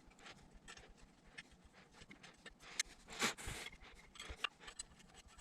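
Light scattered clicks and rubbing from handling a freshly laced, still-loose spoked motorcycle wheel. A louder, brief clatter comes a little after three seconds in.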